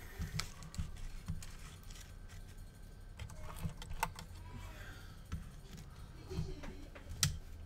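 Scattered light clicks and small rattles of hands handling small parts and tools on a repair bench. The loudest click comes near the end, over a steady low hum.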